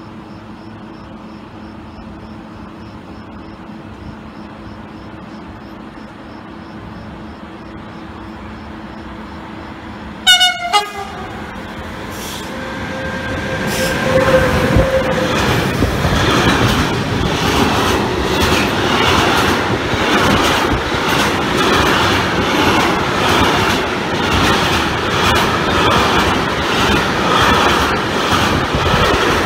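A train sounds two short horn blasts as it approaches, then passes close by. Its wheels clatter rhythmically over the rail joints.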